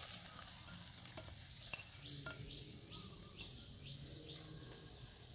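Sliced garlic dropped by hand into a steel wok of hot oil, sizzling faintly, with a few light clicks as the pieces land and shift in the pan.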